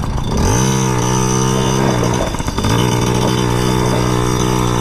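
Motorcycle engine running. It revs up about half a second in and holds a steady note, backs off briefly around two seconds, then picks up again and runs steadily.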